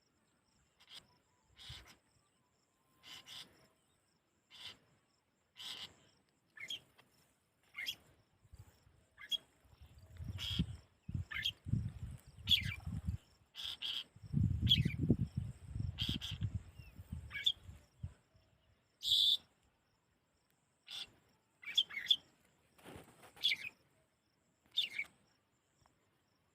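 A small bird calling in short, sharp chirps, about one a second, some falling slightly in pitch. Wind rumbles on the microphone partway through.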